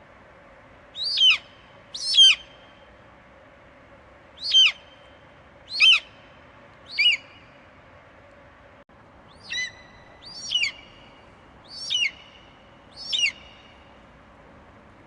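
An eagle screeching: nine short, high calls, each falling sharply in pitch, at irregular gaps of about one to two and a half seconds, over a faint steady hiss.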